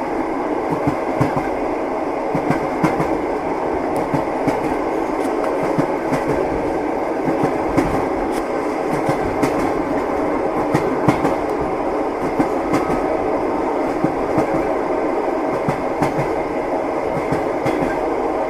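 Railway carriage wheels knocking over rail joints, a string of irregular sharp clicks over the steady running noise of a moving train.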